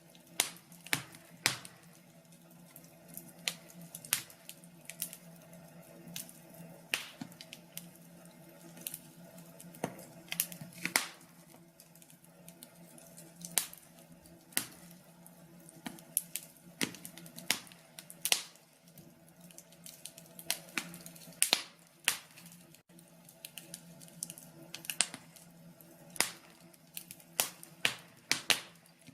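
Wood fire in a fireplace crackling, with irregular sharp pops of uneven loudness, several a second, over a faint steady low hum.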